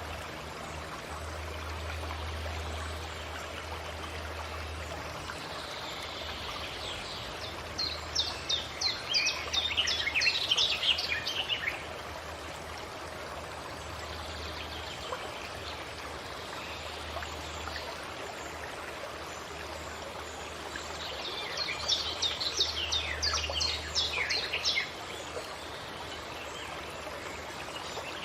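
Forest ambience: a stream rushing steadily under a bird song. The bird sings two quick trills of falling notes, one about a third of the way in and one past two-thirds.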